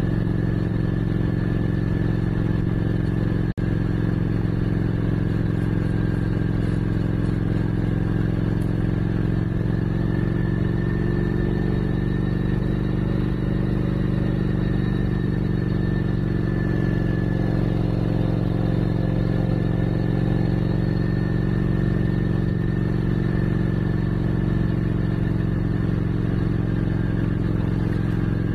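Motorcycle engine running steadily under way at cruising speed, its pitch rising a little midway and easing back. There is a momentary break in the sound about three and a half seconds in.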